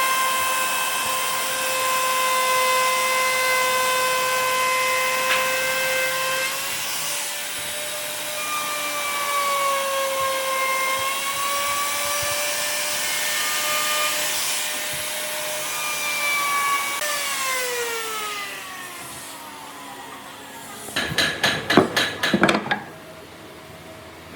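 A woodworking power tool running with a steady whine whose pitch sags a little at times under load. About seventeen seconds in it is switched off and winds down. Near the end comes a short, loud burst of rapid stuttering pulses.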